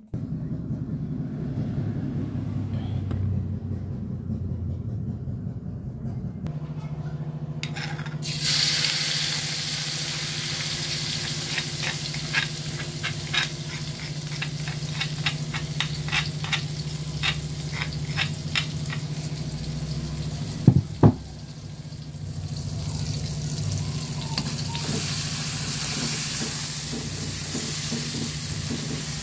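Food stir-frying in a pan. The sizzling starts about a third of the way in, with a spatula clicking and scraping against the pan many times in quick succession. Two loud knocks come about two-thirds through, the sizzling dips briefly, then goes on steadily.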